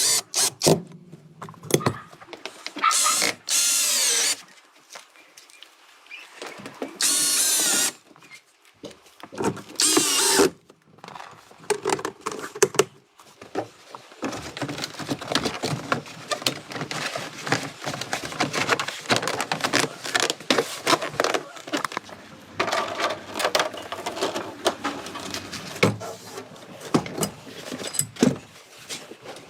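A power tool running in four short bursts of about a second each, followed by a long stretch of clicking and clattering of tools and parts being handled.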